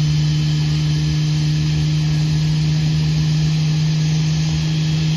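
Airbus A320neo's CFM LEAP-1A turbofan engines running, a steady whine with a strong low hum that holds an even pitch and level.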